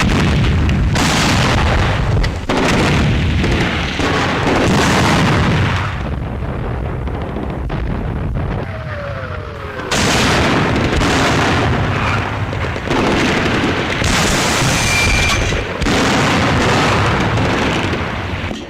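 Tiger I tank's 88 mm KwK 36 main gun firing again and again: about seven heavy booms, each a sudden blast with a long rumbling tail, with a quieter gap between shots in the middle.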